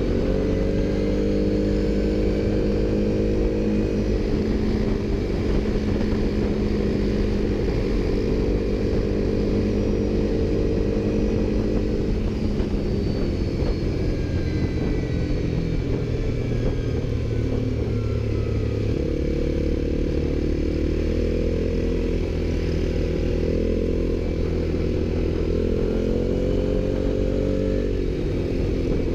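ATV engine running under way, its note slowly falling and rising with the throttle, with a sudden change in pitch about two-thirds of the way through.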